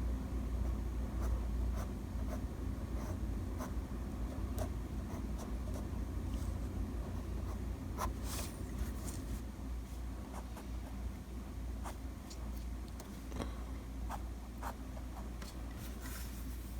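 Drawing strokes: the tip of a drawing tool scratching in short, irregular strokes, over a steady low hum.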